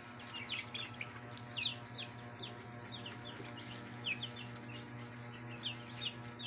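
A brood of about a hundred week-old broiler chicks peeping nonstop, many short falling chirps overlapping, over a steady low hum.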